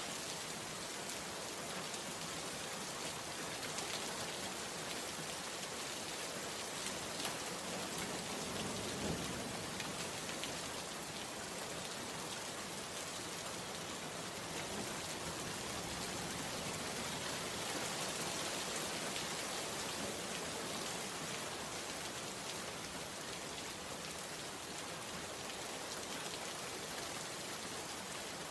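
Steady heavy rain falling on wet ground and foliage, an even hiss of countless drops with no break.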